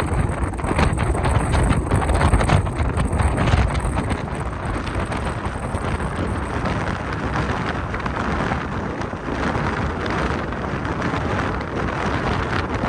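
Strong wind buffeting the microphone: a steady rushing noise with gusty low rumble, heavier in the first few seconds.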